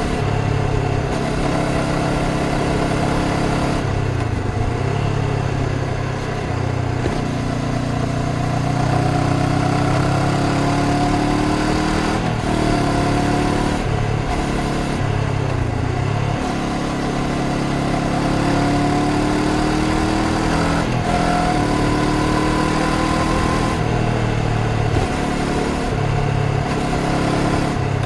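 Honda CBR500R's parallel-twin engine pulling the bike along, its pitch repeatedly rising and falling with the throttle, with a few brief breaks where the tone drops away and picks up again.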